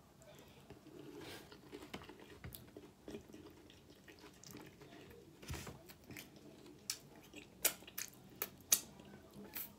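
Close-up chewing of nachos, soft and wet, with sharp mouth smacks and clicks from licking fingers several times in the last few seconds.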